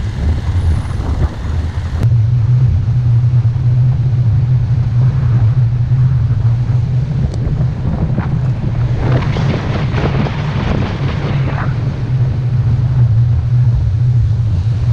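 Small motorbike engine running steadily while riding, a low steady hum, with wind buffeting the microphone. The hum gets louder and steadier about two seconds in.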